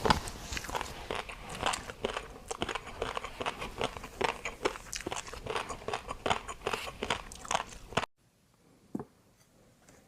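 Close-miked chewing and crunching of food, a dense run of wet, crackly bites that stops abruptly about eight seconds in, followed by a single faint click.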